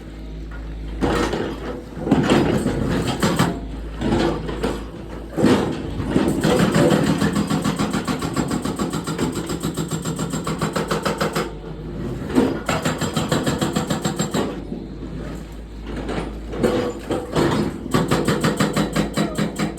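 Diesel engine of a Hyundai long-reach excavator running and working, swelling in loudness several times and settling back between.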